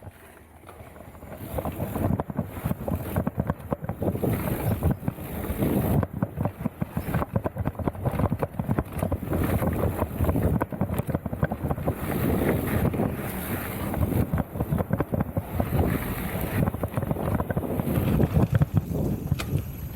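Wind buffeting the microphone of a mountain bike rider's camera while riding, mixed with the rapid rattling of the bike over rough trail. It picks up about a second and a half in and stays loud.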